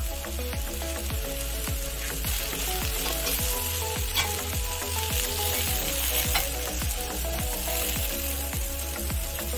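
Mushrooms and vegetables sizzling steadily on a hot cast iron griddle while being stir-fried, with a few sharp clicks of the spatula against the iron. Background music with a steady low beat runs underneath.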